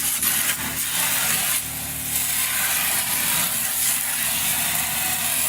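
Water spraying steadily from a utility sink's hand sprayer, a loud even hiss on newly plumbed lines.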